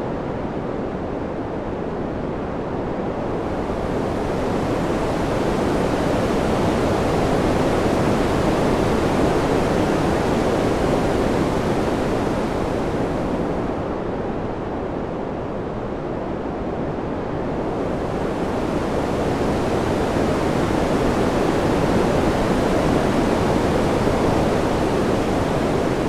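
Steady rushing wind noise that slowly swells and eases, growing louder and brighter twice and dipping in between, without any gusts or other sounds.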